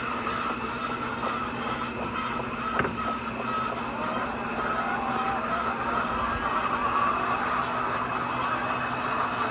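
A steady mechanical hum with a constant low tone and higher whine, with one short knock about three seconds in.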